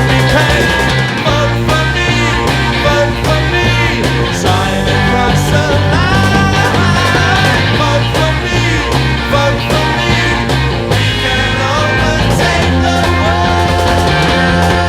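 1960s British psychedelic rock recording: a full band playing, with a steady drum beat.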